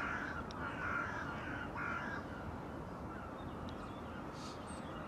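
Birds calling outdoors: a few short calls in the first two seconds, then fainter, over a steady quiet background.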